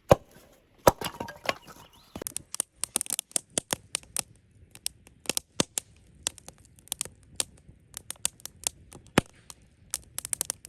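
Wood campfire crackling with many irregular sharp snaps and pops, thicker from about two seconds in; a couple of louder knocks in the first second.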